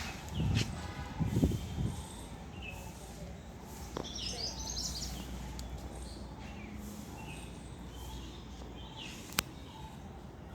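Small birds chirping in short high calls, a cluster of them about four seconds in, over a steady low outdoor hum. A few loud low thumps come about half a second to two seconds in, and there is one sharp click near the end.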